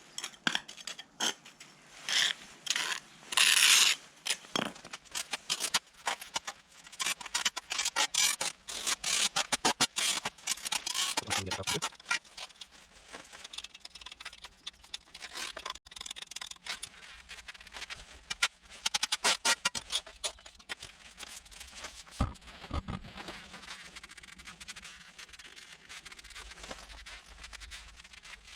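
A narrow pointing tool scraping and pressing dry jointing compound into the joints between patio slabs, in many short strokes, busy for the first twelve seconds or so and sparser after.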